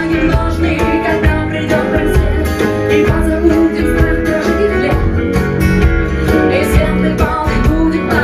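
Rock band playing live, led by guitars over bass and a steady beat.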